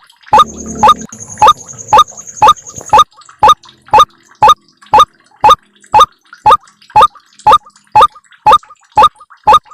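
White-breasted waterhen (ruak-ruak) calling as a lure: one short, sharp note repeated monotonously about twice a second. For the first few seconds a high, steady buzz runs under it.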